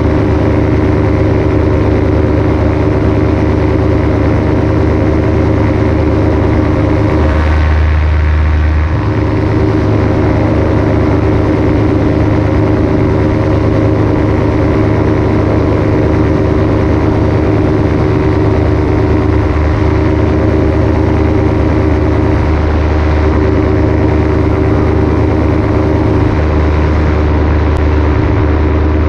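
Paramotor engine and propeller running steadily in flight at a constant pitch, dipping briefly about eight seconds in.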